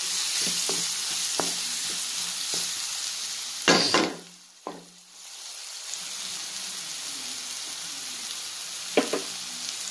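Onion-tomato masala sizzling in hot oil in a pan while it is stirred, the utensil scraping and knocking the pan in short strokes. A loud scrape comes about four seconds in, after which the sizzle drops away for a moment before returning, and there is another sharp knock near the end.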